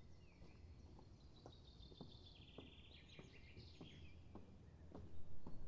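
A songbird singing, with a fast trill in the middle, faint over a steady low rumble of wind and outdoor background. A series of soft short knocks sounds about twice a second throughout.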